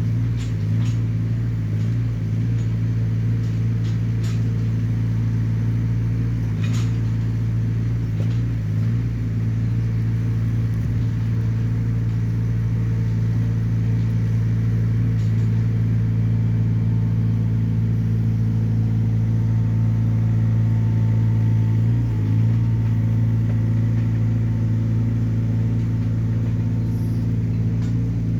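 Small Hyundai excavator's diesel engine running at a steady speed, with a few faint knocks now and then.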